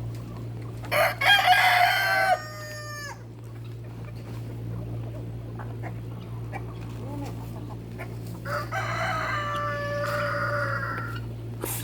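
A rooster crowing twice: one crow about a second in and a second near the end, each with a drawn-out falling finish. A steady low hum runs underneath.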